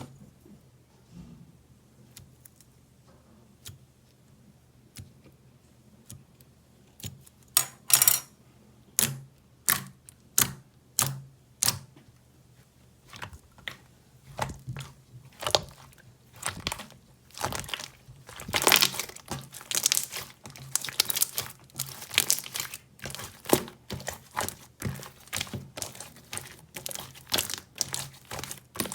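A squishy, jelly-like blue toy being squeezed and pulled by hand, making sticky crackling and crinkling sounds. A few faint clicks at first, then from about seven seconds in a steady run of sharp crackles, some stretched into short tearing smears.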